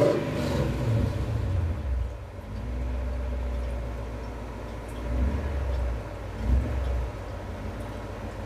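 BMW E39 M5's 4.9-litre V8 through Tubi exhausts: a sharp throttle blip at the very start that falls back to a deep idle, then two short, light blips about five and six and a half seconds in, each dropping back to idle.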